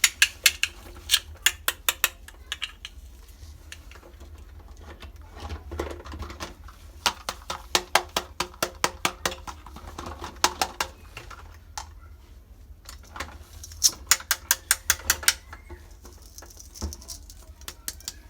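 Small plastic toy kitchen pieces being handled, making quick runs of light clicks and taps in three bursts, with softer handling noise between.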